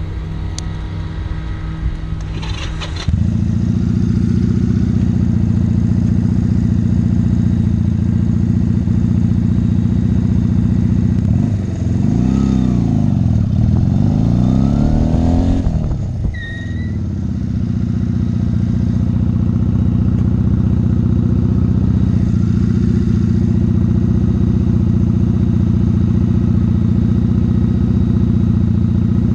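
Motorcycle engine running steadily, then about twelve seconds in it revs up and drops back down as the bike accelerates and brakes hard for a quick-stop exercise.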